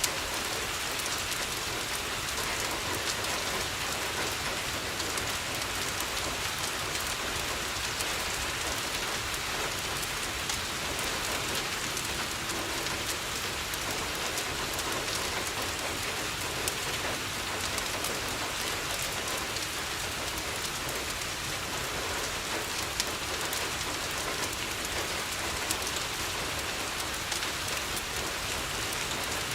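Steady rain pattering on a window, with a few sharp pops from a crackling fireplace.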